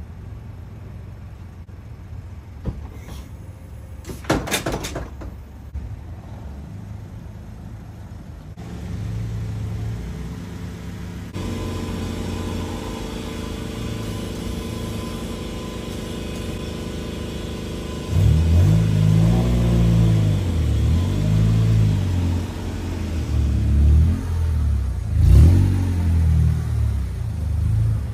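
A 1998 Honda Civic's four-cylinder engine idling, with a short clatter about four seconds in. The car is then driven off, and in the last ten seconds the engine revs up and down repeatedly and louder.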